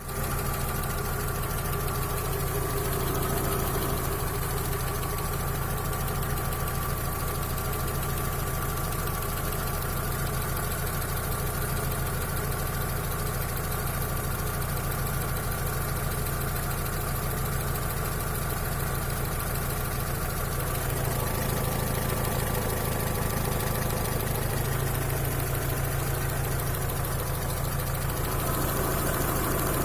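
Skoda Octavia Tour's 1.6 AKL four-cylinder petrol engine idling steadily when hot, with a knock coming from the engine. It rises slightly in level about two-thirds of the way through.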